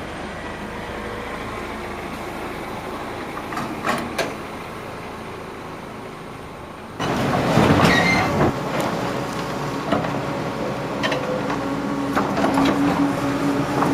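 Heavy vehicle running with metallic clanking and rattling. It gets suddenly louder about seven seconds in, with a steady tone near the end.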